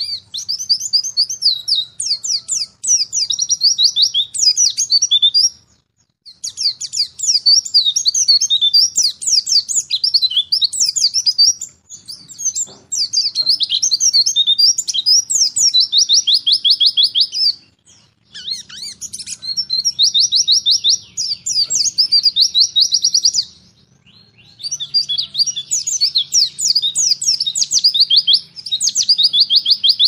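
Birds chirping and trilling rapidly, high-pitched, in phrases of about six seconds, each broken off by a short pause.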